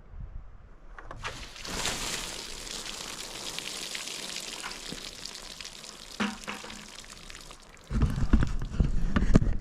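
A steady hissing noise lasting about six seconds, with a few faint clicks in it, followed near the end by a run of louder low thumps and rumbles.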